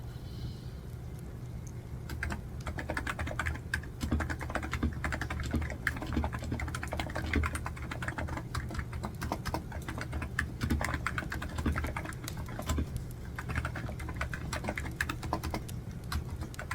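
Typing on a computer keyboard: rapid, uneven key clicks that start about two seconds in and run on with a brief pause near the end. A steady low rumble sits underneath.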